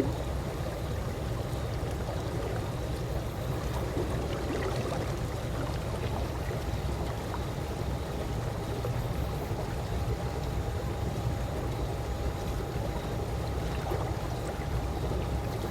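Calm pool water lapping and sloshing gently: a steady low wash with faint small splashes and drips.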